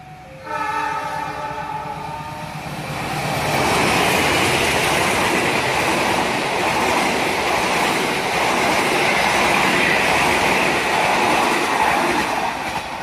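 CC206 diesel-electric locomotive's horn sounds for about two seconds as the train approaches. It is followed by the locomotive and its passenger coaches passing close by, steel wheels running on the rails, loud and steady until it eases off near the end.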